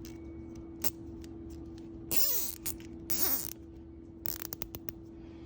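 Plastic zip ties being worked on a go-kart's tubes and lines: two short rasping zips a second apart, each bending in pitch, then a quick run of ticks. A steady faint hum runs underneath.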